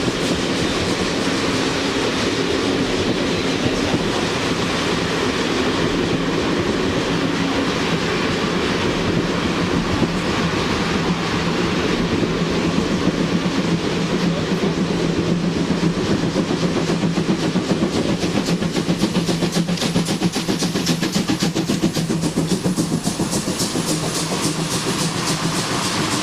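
Train rolling past on the track, wheels clattering rhythmically over the rail joints, the clatter growing stronger in the second half.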